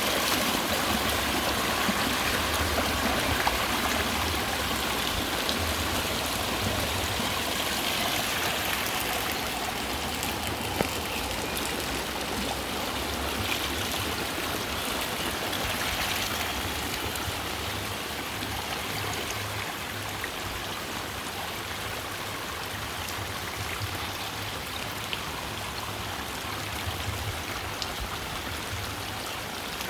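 Heavy rain falling, a steady even hiss with scattered drop splats, easing slightly over the second half.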